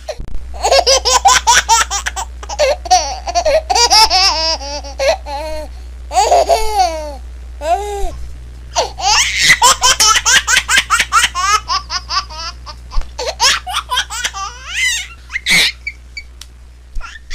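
A baby laughing hard in quick, high-pitched giggle bursts, two long laughing fits with a brief pause for breath in the middle. A steady low hum runs underneath.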